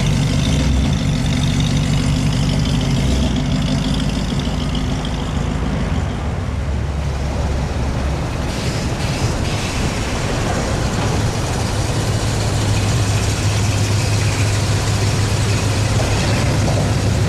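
Car engines running at idle, a low steady rumble. The engine note changes about six seconds in, and a steadier, deeper hum settles in for the last few seconds.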